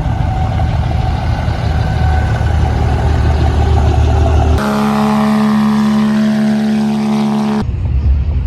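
Clips of a truck engine spliced together: the engine runs with a heavy low rumble, then an abrupt cut about four and a half seconds in to a steady held rev with a strong even engine tone, and another abrupt cut back to low rumble about three seconds later.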